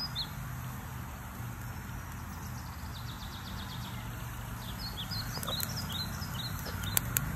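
Birds chirping in short high calls over a steady low background hum, with a couple of sharp clicks near the end.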